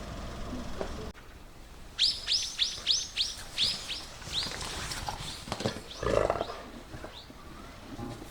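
Golden retriever whining: a run of about ten short, high whimpers, each falling in pitch, starting about two seconds in, followed by a few fainter ones and a low burst of sound about six seconds in. Before the whimpers, a steady low background stops suddenly.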